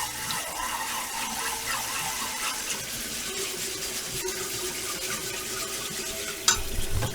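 Water running steadily from a kitchen tap, with a faint steady tone joining about three seconds in. A knock near the end, and the flow stops.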